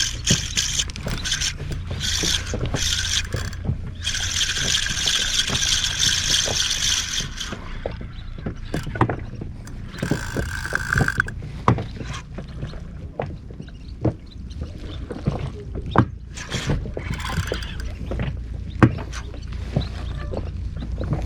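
Water lapping against a small inflatable boat over a steady low rumble, with scattered sharp clicks and knocks. A hissing stretch runs for the first several seconds, and a brief whine comes about ten seconds in.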